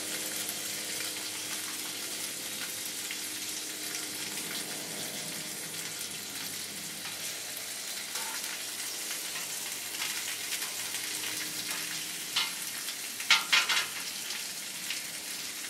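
Chicken wings sizzling steadily on a hot griddle as they cook, with a few short, sharp clatters near the end.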